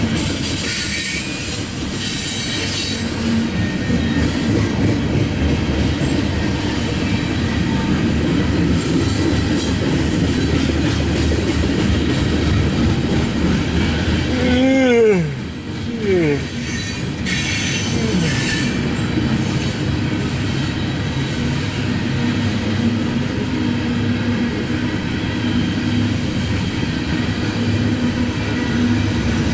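Cars of a loaded coal train rolling past close by: a steady, dense rumble of wheels on rail, with stretches of high-pitched wheel squeal near the start and just after halfway. About halfway a short tone drops steeply in pitch.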